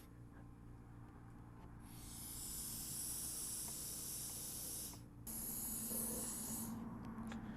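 Compressed air hissing from an air-pump hose at a motorcycle tire valve, in two bursts of about three seconds and a second and a half, over a steady low hum.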